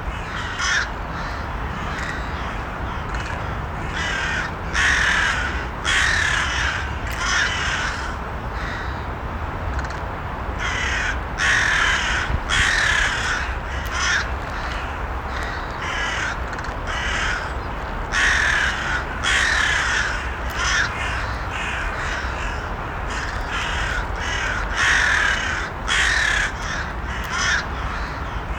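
Crows cawing: harsh calls in short runs of several caws, coming in clusters every few seconds, over a steady low background noise.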